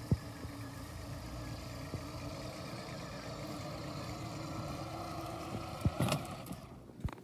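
An engine running steadily at a distance, with a sharp knock just after the start and a brief clatter near the end before the sound drops away.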